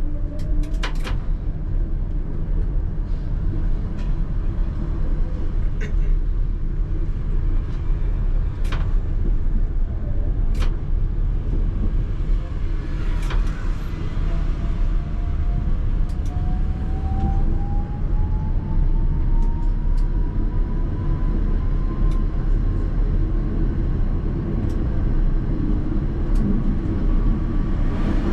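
ČKD Tatra T3R tram running on rails, heard from the driver's cab: a steady low rumble of wheels and running gear, with several sharp clicks from rail joints or points in the first half. About halfway through, a whine from the traction drive begins and climbs slowly in pitch as the tram picks up speed.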